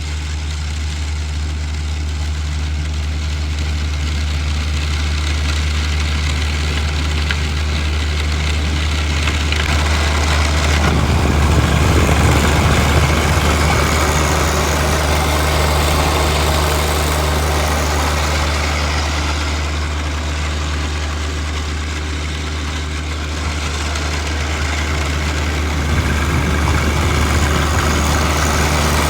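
John Deere 1025R compact tractor's three-cylinder diesel engine running steadily, with a louder rushing noise swelling in about ten seconds in and again near the end.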